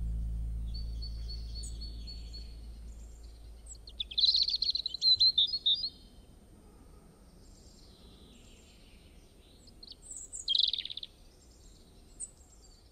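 Small birds chirping and calling outdoors, with a busy run of rapid chirps about four seconds in and another burst near the ten-second mark, over faint background noise.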